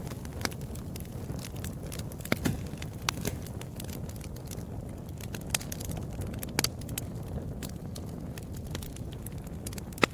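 Wood fire in a fireplace crackling, with irregular sharp pops over a steady low rumble of burning; the loudest pops come about two seconds in, at about six and a half seconds, and near the end.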